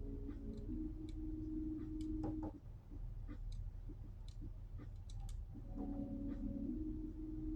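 Wind gusting, with a howling tone that sounds for the first couple of seconds, dies away, and returns near the end, over a steady low rumble and scattered light clicks.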